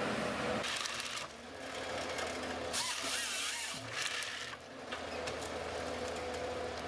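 A machine's motor running steadily, with three short bursts of hissing noise over it: about a second in, around three seconds in and around four seconds in.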